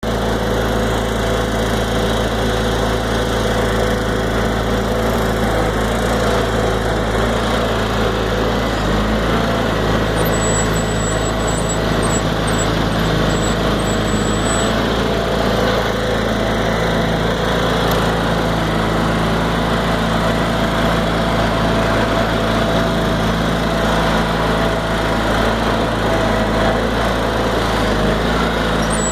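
Case 446 garden tractor engine running at a steady speed, with no change in level.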